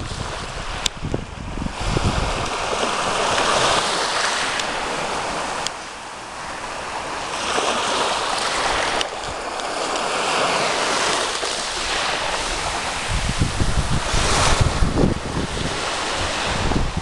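Sea waves breaking and washing up the shore, swelling and falling back every few seconds. Wind buffets the microphone with a low rumble near the start and again in the last few seconds.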